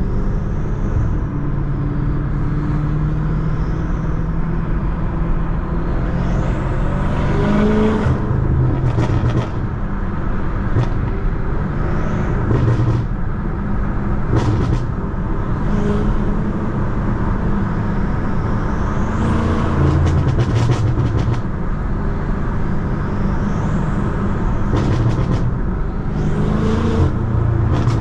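BMW F90 M5's twin-turbo V8 running while driving, its note rising and falling repeatedly as the car speeds up and eases off. Several short clusters of clicks or crackles come through, most plainly around a third of the way in, in the middle and near the end.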